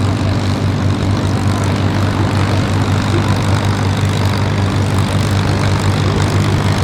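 Propeller-driven piston warbird engine running at a steady speed, a deep even hum that holds one pitch throughout.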